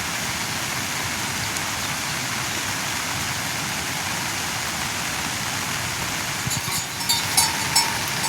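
Steady monsoon rain falling. Near the end there are a few sharp clicks or knocks.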